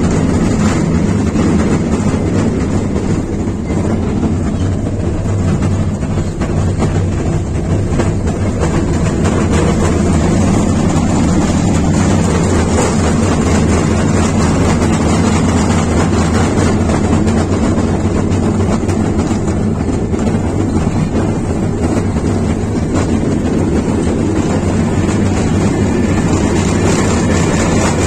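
Amusement-park ride-on train running at an even pace, heard from aboard: a steady low engine drone with no change in speed.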